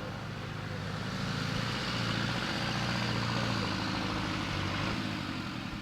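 An off-road 4x4's engine running, growing louder through the first couple of seconds and then easing off again near the end.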